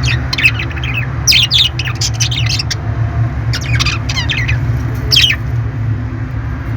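Parrot chirping and squawking in quick, sharp bursts of calls that stop a little past five seconds in, over a steady low hum.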